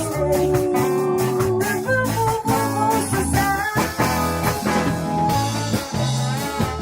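Ska band playing at rehearsal: a melody line over a steady, repeating bass and drum beat, without vocals.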